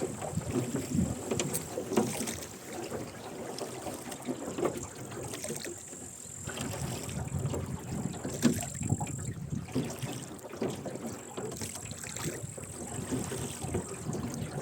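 Rowboat under oars: the oars dip and splash in the river and the oarlocks creak and knock with the strokes.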